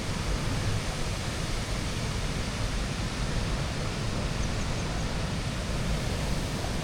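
Steady rushing noise of Jagala Waterfall's water pouring over the limestone cliff, with a fluttering low rumble of wind on the microphone.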